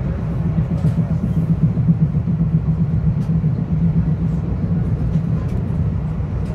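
Metro-North Hudson Line commuter train running along the track, heard from inside the passenger car: a steady low rumble with a constant hum and a few faint clicks.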